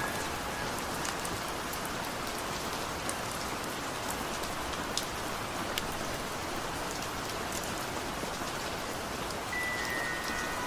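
Steady rain falling, an even hiss with scattered sharp drop ticks. A single high note comes in near the end.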